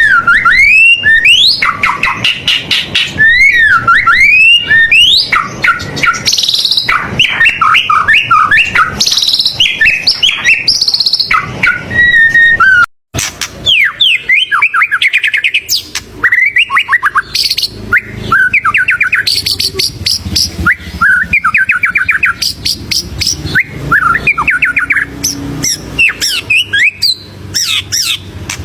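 White-rumped shama (murai batu) singing vigorously: a loud, rapid, ever-changing stream of whistles, slurred notes and fast trills, full of borrowed phrases ('isian'). The song breaks off for a split second about halfway through, then carries on.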